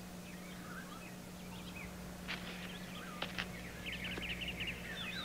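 Wild birds calling outdoors: scattered short chirps and whistled glides, with a quick run of repeated chirps about four seconds in, over a faint steady low hum.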